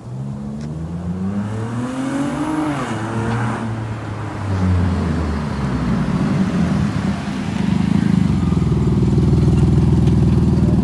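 Infiniti G35's V6 engine and loud exhaust accelerating. The engine note rises for about three seconds, drops back as the revs fall, then settles into a steady, louder drone for the last couple of seconds.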